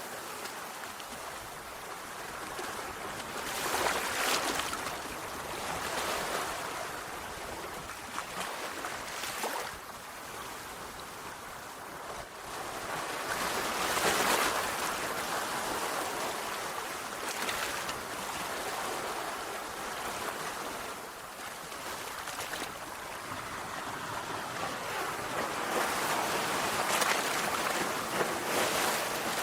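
Sea waves surging and washing on a shore: a steady hiss of surf that swells louder and falls back every few seconds, with the strongest surges about halfway through and near the end.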